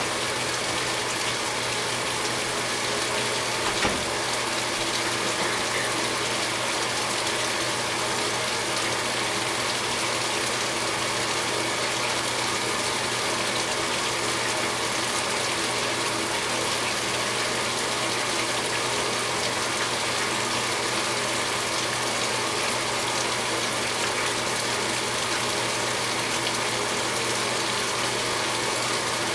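A 2015 Speed Queen 8 Series top-load washer filling its tub with warm water: a steady rush of water pouring in. There is one short knock about four seconds in.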